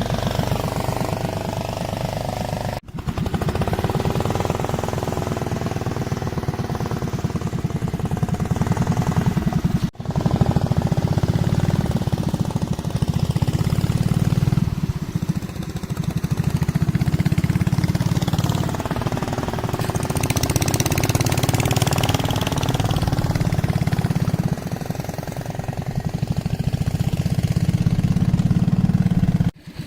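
Boat engine running steadily with a fast low chugging pulse, broken by three brief drop-outs.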